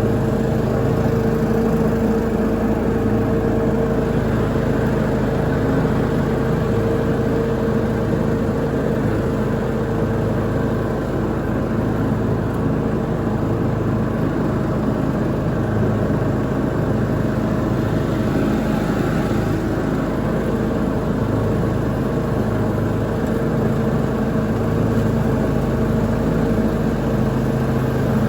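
Lawn mower engine running steadily at a constant speed while mowing.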